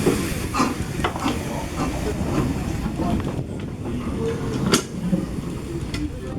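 Narrow-gauge steam locomotive Corris Railway No 3 'Sir Haydn' moving slowly along the track, with hissing steam and several sharp clanks over a low rumble. The hiss dies away about three and a half seconds in.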